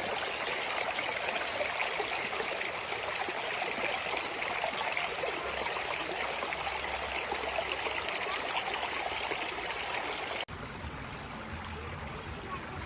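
Flowing stream water, a steady rush; about ten seconds in it cuts abruptly to a quieter, lower flow.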